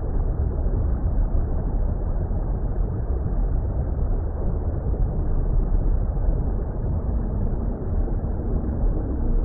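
Steady, deep water rumble of an underwater ambience, even and unbroken, with most of its weight in the bass.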